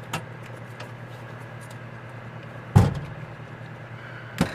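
Hand tools and carburetor parts being handled on a work surface: a light click, then two sharp knocks, over a steady low hum.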